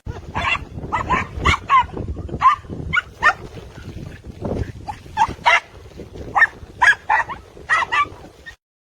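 Dog barking repeatedly in short, sharp barks, about fifteen over eight seconds, ending abruptly near the end.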